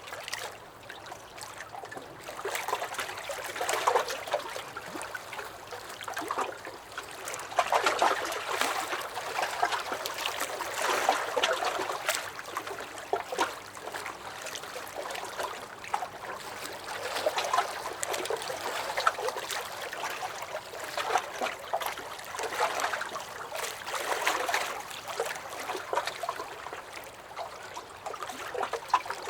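Small lake waves lapping and sloshing against a dock, with little splashes and gurgles, swelling and easing in irregular surges every few seconds.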